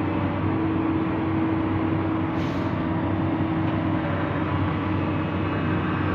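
Excavator's diesel engine and hydraulics running steadily under load while lifting a concrete culvert pipe, with a constant hum and a steady whine. A brief hiss about two and a half seconds in.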